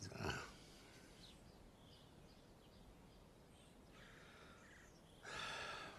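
Faint outdoor ambience with birds chirping here and there. A short louder noise comes right at the start, and a longer burst of noise about five seconds in.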